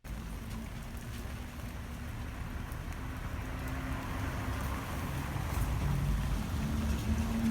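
Steady rain that starts suddenly and grows gradually louder, over a low rumble.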